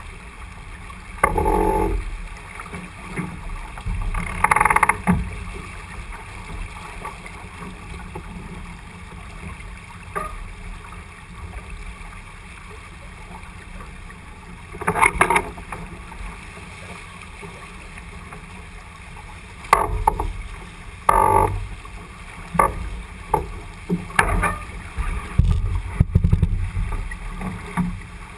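Wind and water rushing past a J80 sailboat under way, a steady low rumble. Short louder noises break in a few times, more often in the last third.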